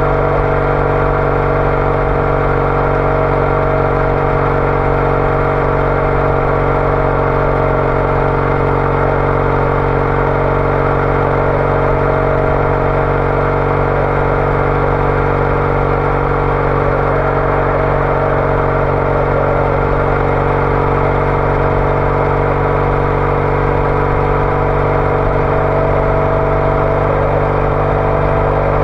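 Triumph Bonneville T214's 865 cc parallel-twin engine running through an aftermarket TOGA exhaust, holding a steady speed while cruising with no shifts or revving.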